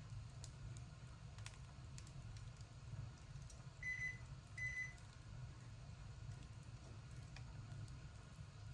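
Two short electronic beeps at one steady pitch, about half a second apart, over a low steady hum with a few faint scattered clicks.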